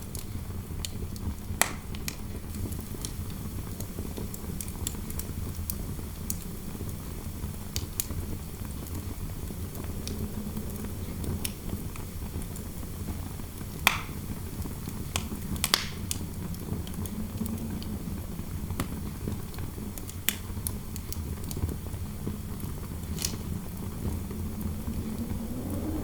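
Fireplace fire crackling, with scattered sharp pops and a few louder ones, over a steady low rumble of wind. Near the end, a wind howl rises in pitch.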